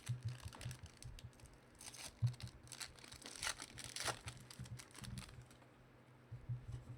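Foil trading-card pack wrapper crinkling and tearing as a pack is ripped open and the cards handled, in rustles and small clicks that are busiest between about two and four and a half seconds in.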